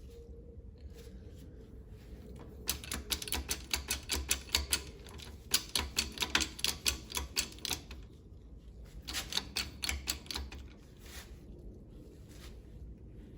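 Rapid, even clicking at about six clicks a second from the hydraulic shop press as the axle shaft is pressed into its new bearing. The clicking starts a few seconds in, runs for about five seconds, stops briefly, then comes again in a shorter run.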